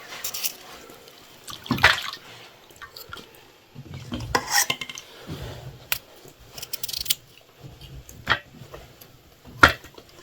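Kitchen clatter: a series of separate knocks and clinks of dishes and utensils being handled, the loudest about two seconds in and near the end.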